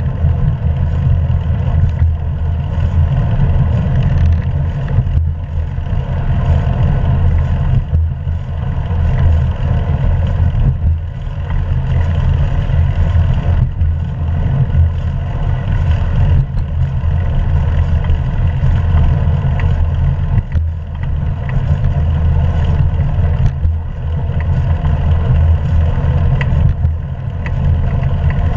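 Wind buffeting an action camera's microphone on a moving bicycle: a loud, steady low rumble that swells and dips slightly.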